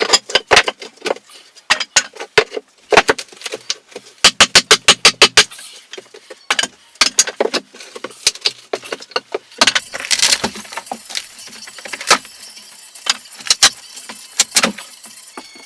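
Irregular sharp knocks and clatter from building work, with a quick run of about ten even strikes a few seconds in.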